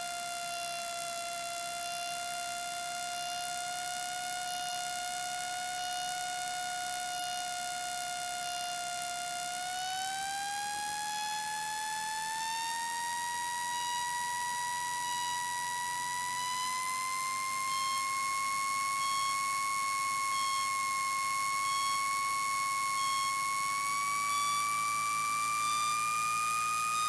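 A steady, high whine with many overtones in the cockpit audio, holding one pitch for about ten seconds, then rising in steps to a higher pitch.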